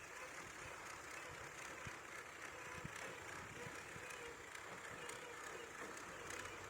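Motorbike on the move: faint, steady engine and road noise with a low hiss and small knocks.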